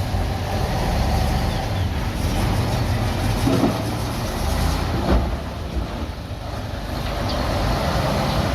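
Bulldozer's diesel engine running steadily under load, with a few short knocks from the machine working.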